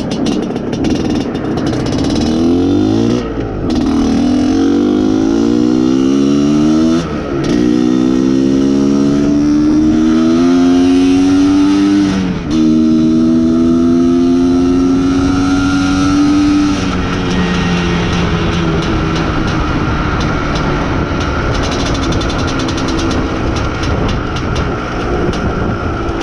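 Izh Planeta Sport's single-cylinder two-stroke engine, freshly being run in, pulling away and accelerating up through the gears. Its note rises in each gear and drops briefly at each gear change, then holds a steady note at cruising speed for the last several seconds.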